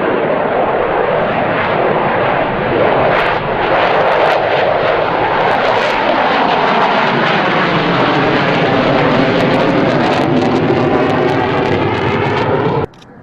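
Fighter jet engines roaring as the aircraft passes, the tone sweeping as it goes by; the sound cuts off suddenly near the end.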